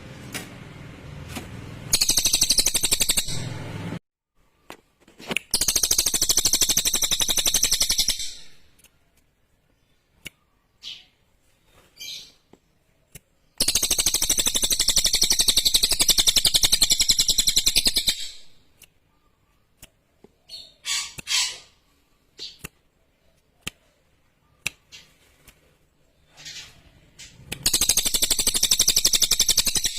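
A cililin songbird singing in long, loud bursts of rapid, high, sharp chattering notes, several seconds each, with short single chirps in the pauses between.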